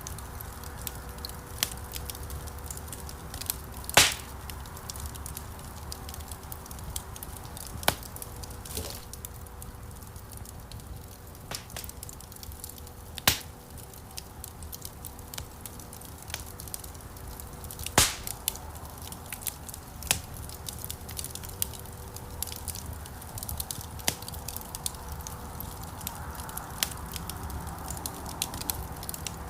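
Wood fire burning in a stone fireplace: a steady low rumble of flames with frequent small crackles and a few loud pops, the loudest about 4, 13 and 18 seconds in.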